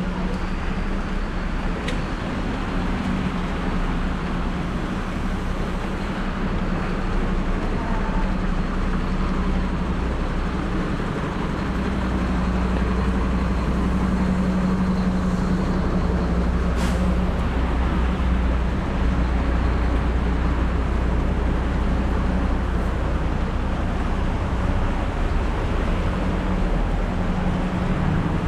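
Steady rain with street traffic: a motor vehicle's engine hums low throughout and grows louder and deeper in the middle.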